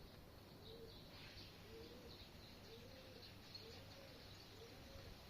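Faint bird calls: a low call that rises and falls, repeated about once a second, with faint high chirps over it.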